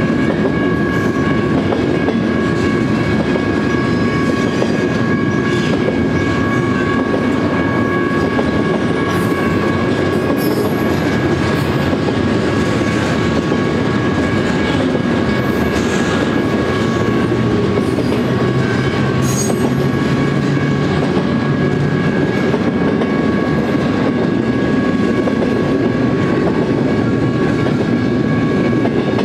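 Double-stack intermodal container train rolling past: a steady, loud rumble of steel wheels on rail with occasional sharp clicks, and steady high ringing tones over it throughout.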